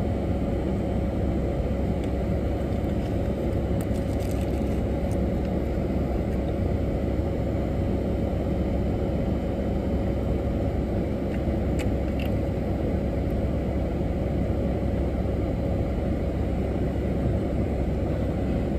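Steady low rumble and hum inside a minivan cabin with the engine idling, with a few faint clicks about four and twelve seconds in.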